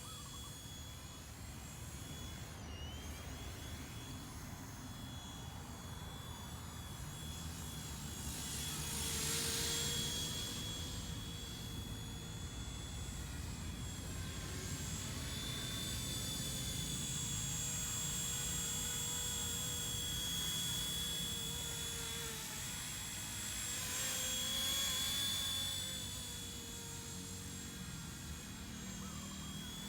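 XK K124 EC-145 scale brushless RC helicopter in flight: a steady high-pitched motor whine that wavers slightly in pitch, over the rush of the rotor. It swells louder about ten seconds in and again around twenty-five seconds.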